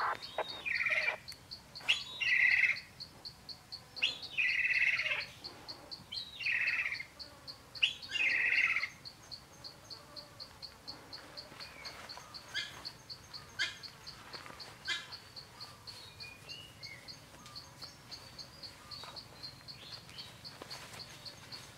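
Five loud, harsh bird calls about two seconds apart, all within the first nine seconds, with a few fainter chirps later. Under them an insect keeps up a steady, rapid ticking chirp throughout.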